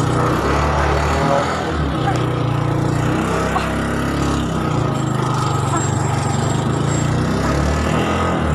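The motorcycle engine of a tricycle running steadily, heard from inside its sidecar.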